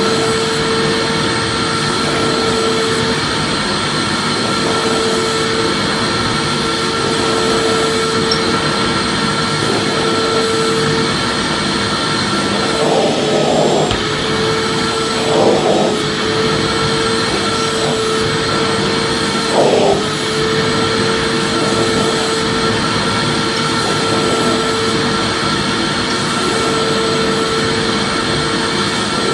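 Vacuum cleaner running steadily: a dense, constant rushing noise with a steady whine. The tone wobbles briefly a few times around the middle.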